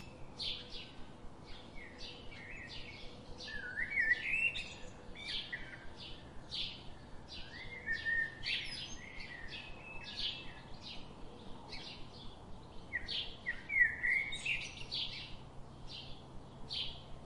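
Birds calling: a steady run of short, high chirps at about two a second, with a few warbling phrases that slide in pitch mixed in.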